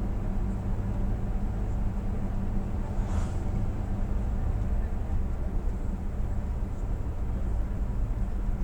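Steady low engine and road drone of a truck heard from inside the cab while driving, with a brief hiss about three seconds in.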